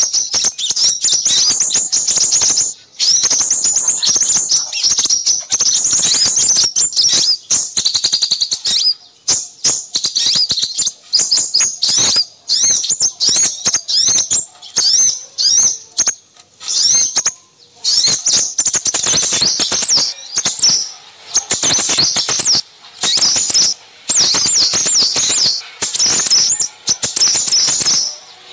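A noisy chorus of small birds twittering and chirping, rapid high-pitched phrases that go on almost without a break, with a few short pauses. It is a bird-trapper's lure recording of small-bird calls meant to draw in crimson sunbirds.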